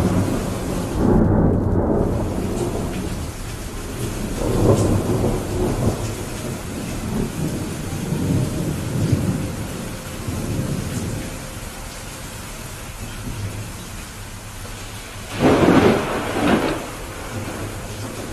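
Steady rain with rolling thunder: low rumbles swell and fade several times, and a louder, sharper peal of thunder comes about three-quarters of the way through.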